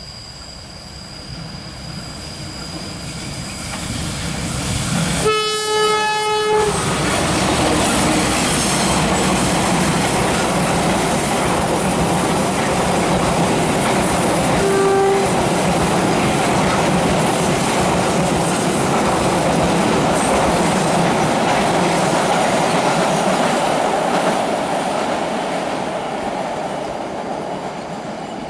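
Progo passenger train passing close by: the locomotive horn sounds one long chord about five seconds in, then the carriages run past in a steady loud rumble and clatter, with a short second horn note around halfway. The noise builds up at the start and fades away near the end.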